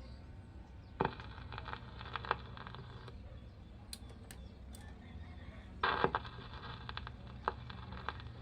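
RCA Victor 45-EY-2 record changer between records: a steady low motor hum with several clunks and clicks as the changer mechanism cycles.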